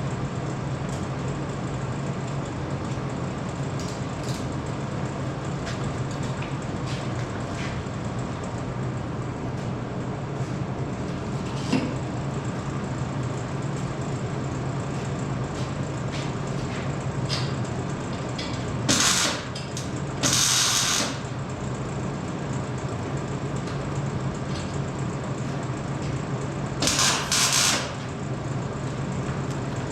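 A steady mechanical hum with a few short, loud hissing bursts, two close together past the middle and one more near the end.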